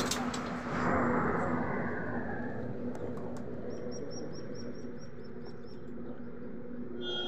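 A small bird chirping a quick, evenly spaced run of about nine short high chirps, roughly four a second, a few seconds in, over a faint steady hum.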